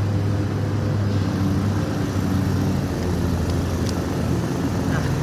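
Lawn mower engine running steadily, a constant loud drone.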